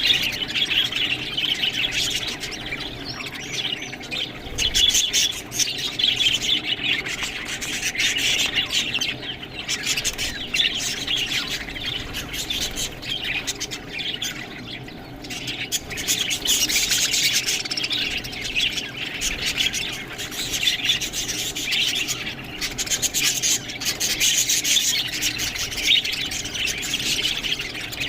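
Budgerigars chattering and chirping continuously in a busy stream of short, high calls.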